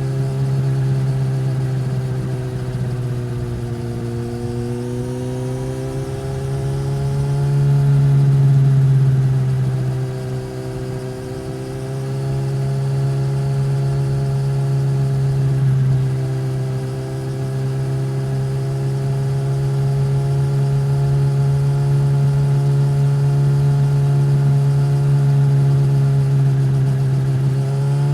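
2015 Suzuki GSX-S1000's inline-four engine, breathing through a Yoshimura R-11 slip-on exhaust, running at a steady, even note. Its pitch dips slightly about four seconds in, and it grows louder for a moment around eight to nine seconds.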